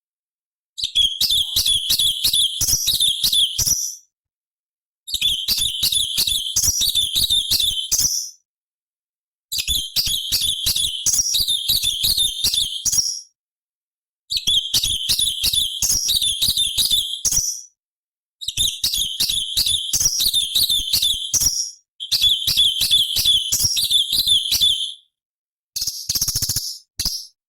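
Orange-bellied leafbird (cucak cungkok) singing: rapid, sharp chattering and twittering phrases delivered in about seven bursts of three to four seconds each, with short pauses between them.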